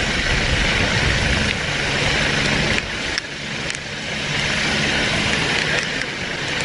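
Steady engine drone with a loud hissing wash over it, briefly cut and dropping in level about three seconds in.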